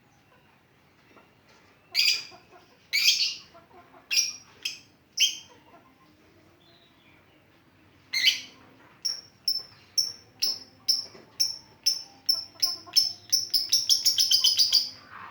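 Lovebird calling: a few harsh, raspy chirps, a pause of a couple of seconds, then a string of short high chirps that speeds up into a rapid chattering trill near the end. This is the 'ngetik' (typing) song.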